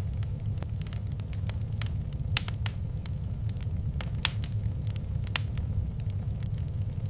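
Wood fire in a fireplace crackling, with irregular sharp pops over a steady low rumble; the loudest pops come about two and a half, four and five and a half seconds in.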